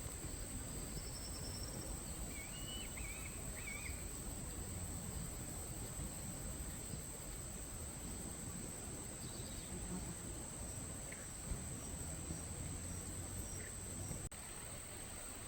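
Insects droning in one steady high-pitched note, with a few brief bird chirps, clearest about two to three seconds in, over a low background rumble.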